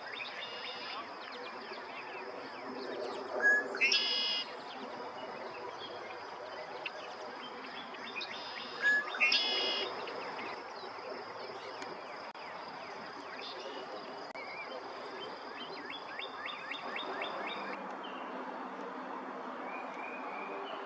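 Birds singing outdoors: a loud, complex song phrase comes twice, about five seconds apart, among scattered shorter chirps and a quick run of notes later on. A steady high-pitched tone runs underneath and stops near the end.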